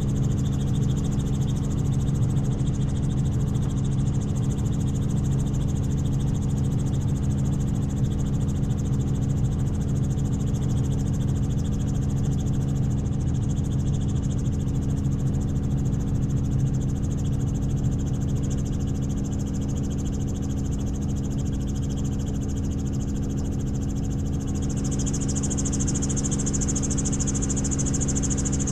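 Helicopter in steady flight: the rotor and turbine give an unbroken low drone with a high whine above it, and the whine grows louder near the end.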